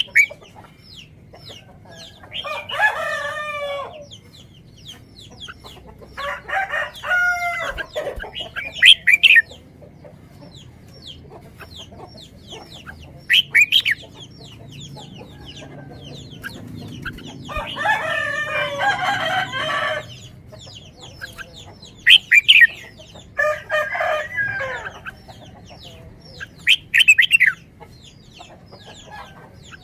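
Birds calling: four long, drawn-out pitched calls of about two seconds each, with short sharp calls between them and faint chirps throughout.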